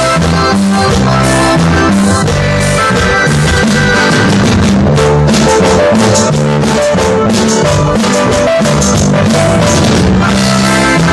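A band playing, with drum kit, a bass line that steps between notes, and guitar over a steady beat.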